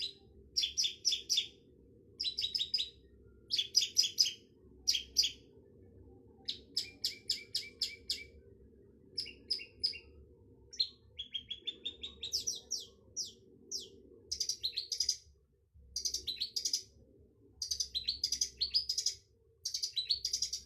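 Long-tailed shrike (cendet) singing: short phrases of rapid repeated chattering notes, separated by brief pauses, with a rising run of notes about halfway through.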